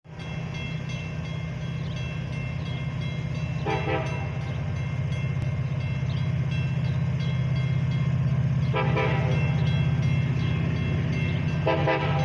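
Railroad crossing bell ringing while an approaching Metra commuter train's rumble grows steadily louder. The train horn sounds three brief blasts, about four, nine and twelve seconds in.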